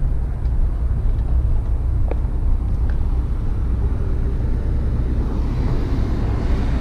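Gas Go-Ped scooter's small two-stroke engine (a Chongyang CY26RC) running steadily while riding, under a heavy, steady wind rumble on the microphone.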